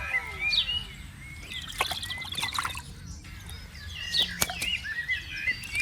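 Water sloshing and splashing, with repeated short bird chirps and a few sharp splash-like strokes.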